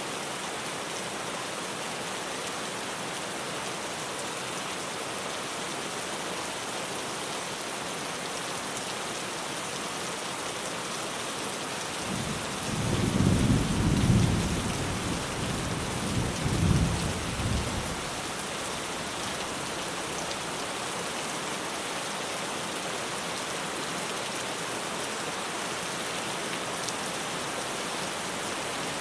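Steady heavy rain drumming on a tin roof, with a rolling rumble of thunder about halfway through that swells twice over several seconds before fading back into the rain.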